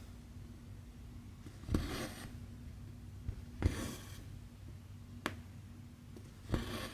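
Embroidery thread drawn through cross-stitch fabric three times, each pull a sharp start followed by about half a second of scratchy noise, with two short ticks of the needle in between.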